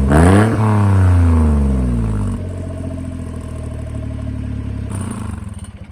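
Suzuki Carry DA62T kei truck's naturally aspirated 660 cc three-cylinder engine through a stainless aftermarket muffler with its baffle fitted: one quick blip of the throttle right at the start, the revs falling back to a steady idle by about two seconds in. The sound dies away near the end.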